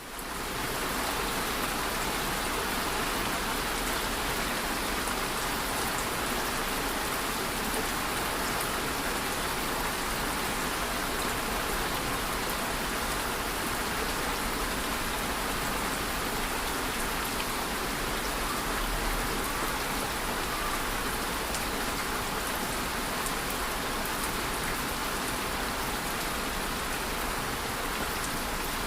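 Steady rain: an even hiss of falling rain with scattered drops ticking through it, fading in over the first second.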